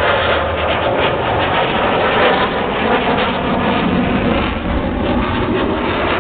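Military fighter jet engines, a loud, steady rushing noise.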